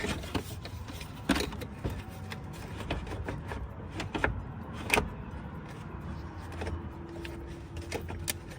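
Irregular hard plastic knocks and clicks as a Jeep Grand Cherokee's radiator cooling fan assembly is pushed and worked into its mounting tabs, the fan not yet seating.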